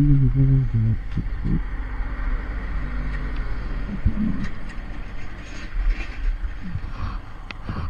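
A motor vehicle running steadily with a low rumble, with scattered faint clicks. A voice is briefly heard in the first second.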